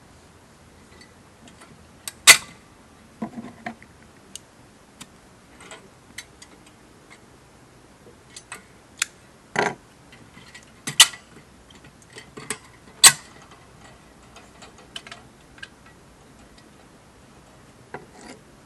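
Irregular sharp clicks and knocks, a few much louder than the rest: one about two seconds in, then three more from the middle on.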